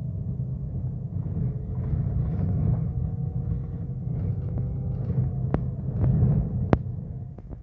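Scania K270UB bus running under way: a steady low engine rumble with a faint whine from its ZF automatic gearbox, and a few sharp clicks from the bus later on.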